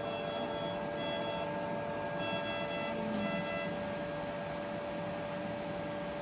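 Electronic beeping from operating-room equipment over a steady machine hum. There are four short multi-tone beeps, in two pairs, in the first half, and then only the hum.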